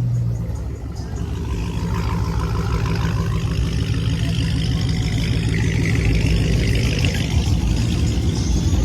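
Car engine running loud and close, revving, its pitch climbing and falling through the middle, over a heavy low rumble.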